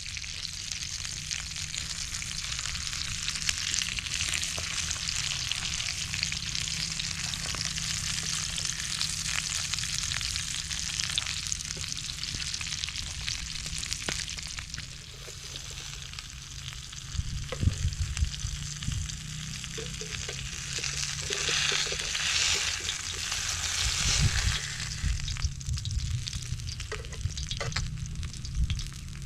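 Fish frying in hot oil with a steady sizzle, and a few knocks and stirring sounds from handling the pan partway through.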